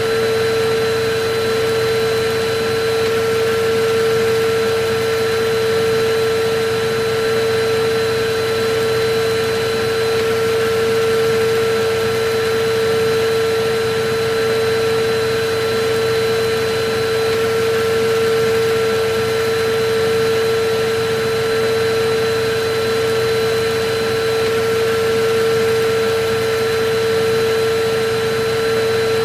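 Electric vacuum cleaner running steadily: a constant motor hum over a rush of airflow noise.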